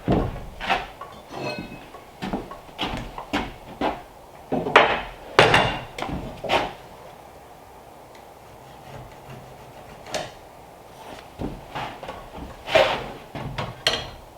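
Irregular knocks and clunks of wood on wood, a dozen or so in quick uneven succession, then a quiet stretch before a few more near the end.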